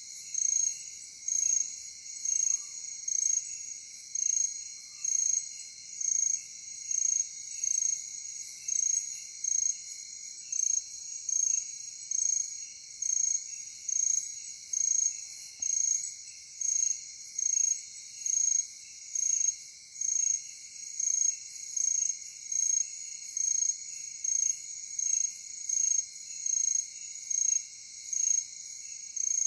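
Chorus of night insects chirping in a steady, even rhythm of a little more than one pulse a second, over a continuous high trill.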